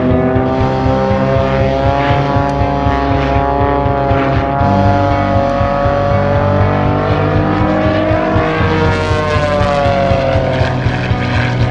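Pitts Special S-2S aerobatic biplane in flight, its six-cylinder Lycoming engine and propeller droning steadily. The pitch drifts slowly down, rises about two-thirds of the way through, then falls again as the plane manoeuvres.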